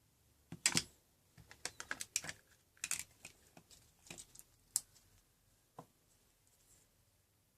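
A dozen or so light, irregular clicks and taps, bunched in the first half and thinning out after about six seconds, like small objects being handled.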